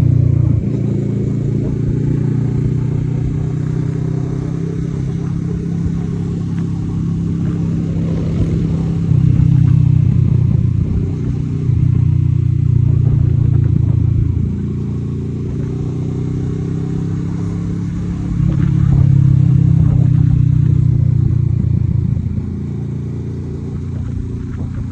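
Kawasaki Z650RS parallel-twin engine running through an aftermarket Akrapovic exhaust, a steady deep exhaust note that swells louder three times.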